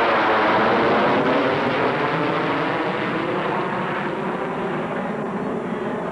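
An airplane passing overhead, loudest about a second in, then slowly fading.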